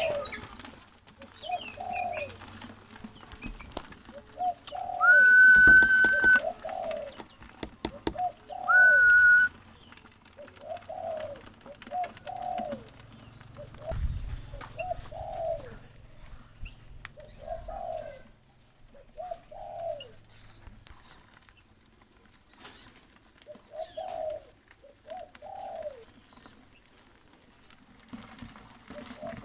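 A dove cooing over and over in short, arching low notes. Another bird gives sharp, high chirps, mostly in the second half, and two held whistle notes sound a few seconds in.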